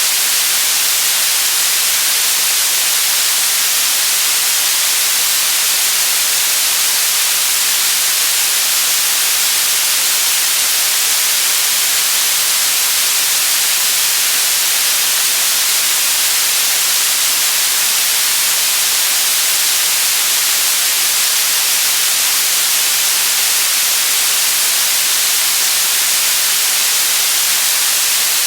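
Steady white noise: a loud, even hiss with no change, brightest in the high range.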